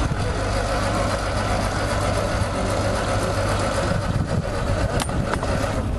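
An engine running steadily, with a few sharp clicks near the end.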